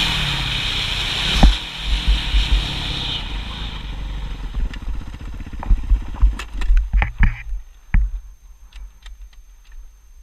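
Motocross motorcycle engine running loud, then dying away over several seconds. Scattered knocks and clatter follow, and it is much quieter near the end.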